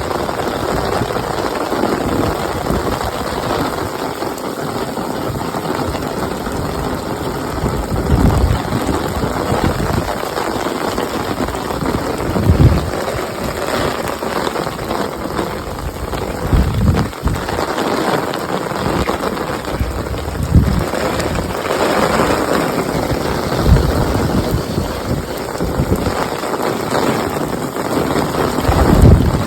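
Heavy rain pouring down steadily, with a few brief low thumps at intervals.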